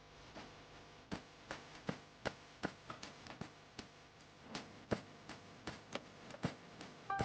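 Faint, even ticking, about two and a half ticks a second, over a low steady hum.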